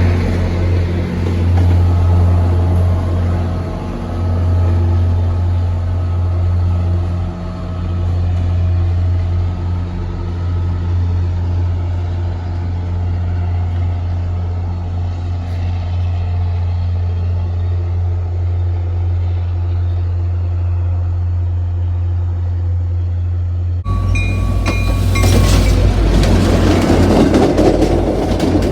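Diesel locomotive engine running with a steady low drone. Near the end it cuts abruptly to louder, rougher train noise with a few brief higher tones.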